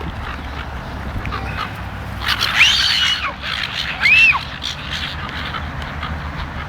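Seagulls calling: a harsh call about two seconds in and a shorter one about four seconds in, each arching up and back down in pitch, over a steady low rumble.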